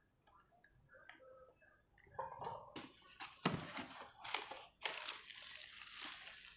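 Faint small clicks, then from about two seconds in a spell of loud crinkling and rustling of packaging being handled and pulled open, with sharp clicks mixed in.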